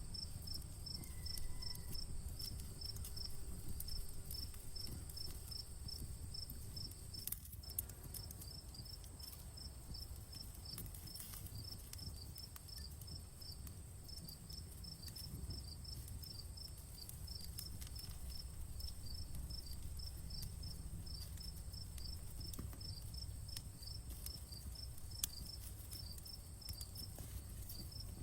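Crickets chirping steadily, about two high chirps a second, over a continuous high insect trill. Beneath them, a low rumble and the faint crackle of a campfire, with a sharper pop about a third of the way in and another near the end.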